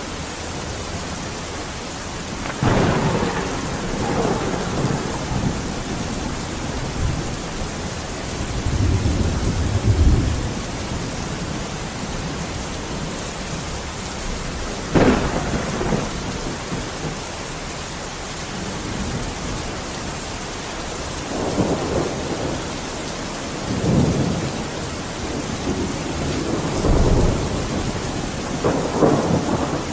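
Steady rain falling, with repeated rolls and cracks of thunder breaking through it, several times in the stretch, the sharpest crack about halfway through.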